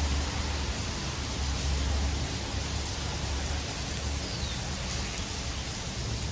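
Steady hiss of falling rain, with a faint low rumble underneath.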